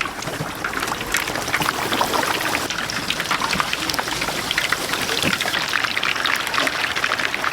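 Food deep-frying in hot oil: a dense, steady crackle of many small pops.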